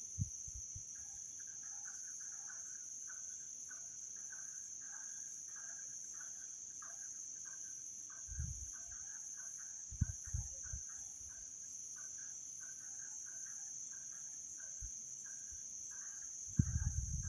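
Steady night insect chorus, crickets trilling on one high, unbroken note, with scattered faint chirps. A few dull low thumps break in around the middle and again near the end.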